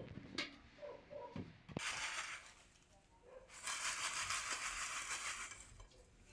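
Fried dough balls being tossed in granulated sugar and cinnamon: a gritty rustling hiss. There is a short burst about two seconds in and a longer one from about three and a half to five and a half seconds, after a few light clicks.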